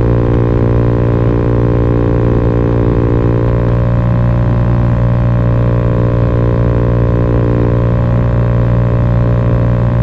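Italjet Dragster 125 scooter engine running at a steady speed through an Akrapovic racing slip-on exhaust with its baffle removed, giving an unchanging droning note.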